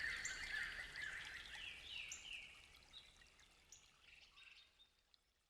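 Morning forest dawn chorus: several songbirds calling, with repeated falling chirps and short high notes, the whole recording fading out toward the end.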